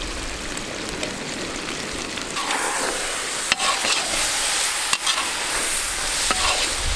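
Chicken and sliced peppers frying in a large wok, sizzling steadily as they are stirred and tossed, with a few sharp clicks of the spatula against the pan.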